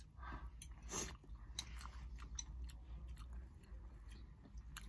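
Close-up chewing of soft instant noodles, with scattered small wet clicks, over a faint steady low hum.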